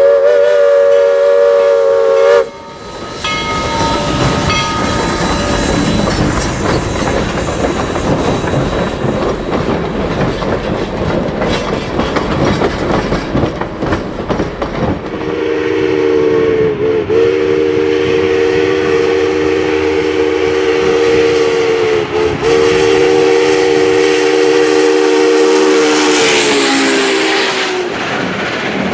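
A steam locomotive's chime whistle blows for about two and a half seconds and cuts off, then the train works past with heavy rumbling as empty log cars roll by on the rails. Later a locomotive's multi-note chime sounds one long blast of about twelve seconds, dipping briefly twice, as a Union Pacific passenger train passes.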